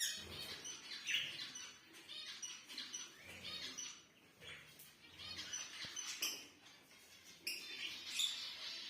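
Small birds chirping and twittering in quick high bouts, with short lulls about four and seven seconds in.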